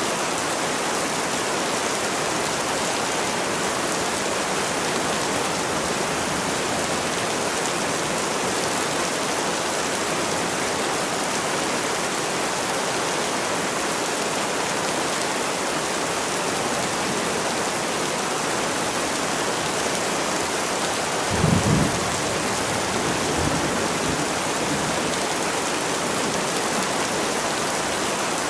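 Steady heavy rain falling. About three quarters of the way through there is a brief low thump, with a fainter one about two seconds later.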